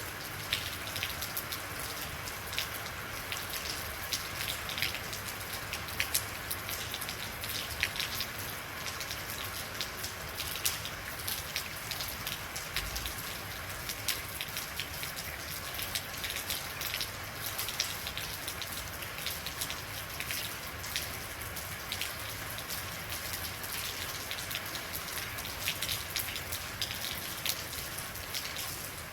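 Steady rain falling, with many individual drops ticking sharply on a hard surface over a constant hiss.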